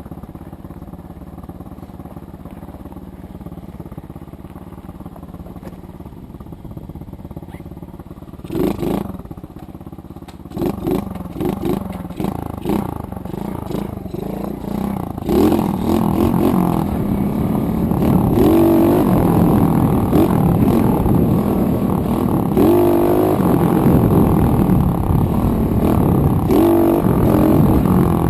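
110cc dirt bike's single-cylinder four-stroke engine idling steadily, then revved in short blips. About halfway through it is ridden off hard, its pitch climbing and dropping again and again as it runs up through the gears at full throttle toward top speed.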